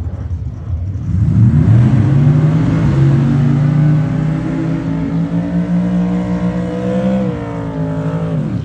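Drag car's engine at full throttle on a pass down the strip: the note climbs steeply starting about a second in, holds high with a couple of small pitch steps, then drops just before the sound cuts off suddenly.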